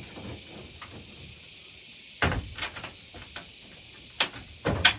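Steady high drone of cicadas, with a few sharp knocks and rattles: one about two seconds in and a louder cluster near the end.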